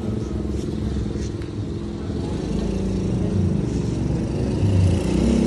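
Domestic cat purring close to the microphone, a steady low rapid rumble.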